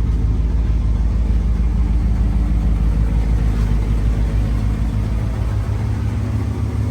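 A first-generation Dodge pickup's engine running steadily at low speed, a deep even rumble, with a slight easing in the lowest notes near the end.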